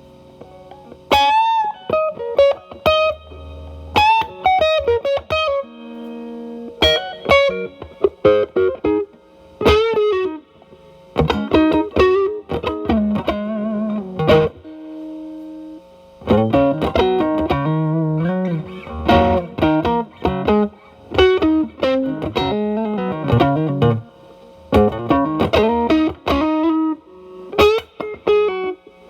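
Telecaster electric guitar played through an E.W.S. Brute Drive distortion pedal into the drive channel of a Marshall Valvestate amp, with the guitar's volume likely rolled back to clean up the tone. It plays single-note lead phrases with string bends and vibrato, with short pauses between phrases.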